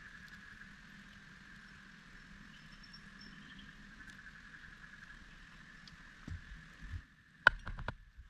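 Steady, faint high drone of rainforest insects. About seven and a half seconds in, a quick series of sharp knocks breaks in, the first one loudest.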